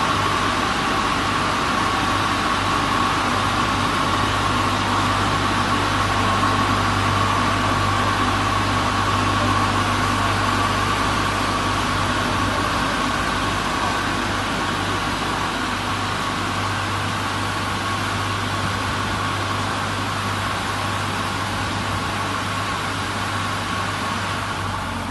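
W200D automatic car wash machine running steadily: a low motor hum with a steady whine and a continuous hiss, easing off slightly near the end.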